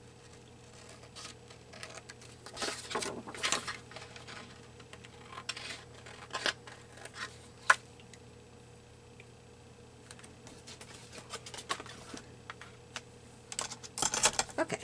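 Paper and card pieces being handled and shuffled on a craft desk: scattered rustles and light taps, with one sharp click about eight seconds in.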